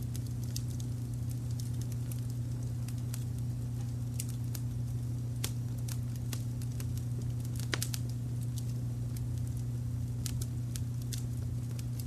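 Wood fire crackling, with frequent small pops and one louder pop about two-thirds of the way through, over a steady low rumble of brown noise.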